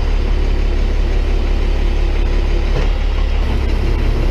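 Tow truck's engine running steadily under the work of the hydraulic can-crusher attachment pressing trash down into a can. A steady hum over the engine stops about three seconds in.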